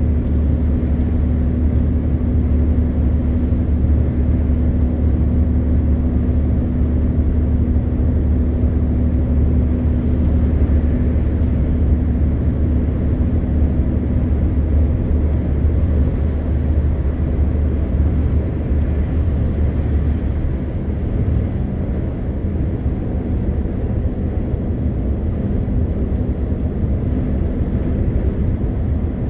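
MAN TGX 520 truck's 12.4-litre inline-six diesel engine running steadily under way, a deep constant drone with road noise, easing a little about twenty seconds in.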